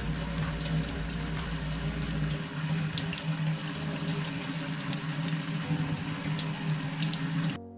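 Warm running water splashing steadily as a parrot is given a shower under it; it cuts off abruptly near the end.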